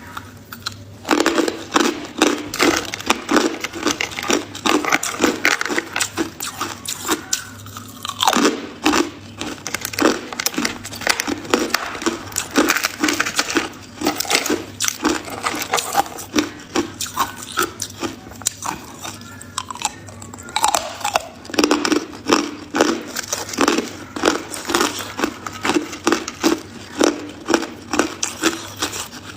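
Ice being bitten and chewed, with sharp, crackly crunches about two a second and a few short pauses between bites.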